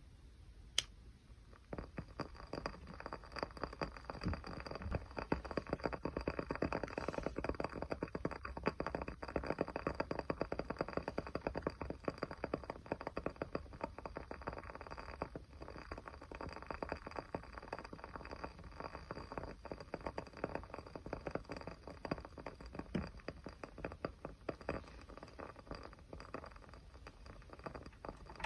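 Small fire crackling: a single sharp click, then from about two seconds in a soft, steady stream of quick pops and crackles.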